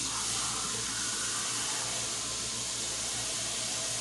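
Onions and bell peppers sizzling steadily as they saute in an Instant Pot on its saute setting, an even hiss.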